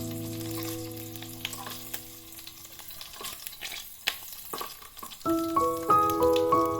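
Pork and lemongrass frying in a miniature pan, sizzling with scattered sharp crackles and pops.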